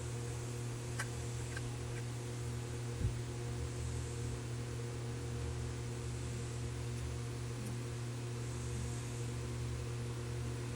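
Steady electrical-sounding hum made of several fixed tones, with a few faint ticks about a second in and a soft knock around three seconds.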